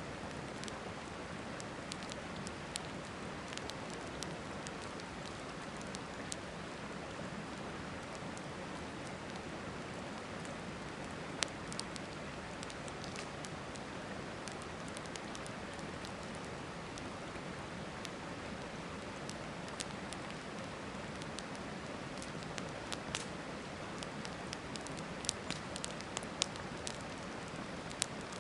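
Campfire crackling, with scattered sharp pops that come more often near the end, over the steady rush of a river.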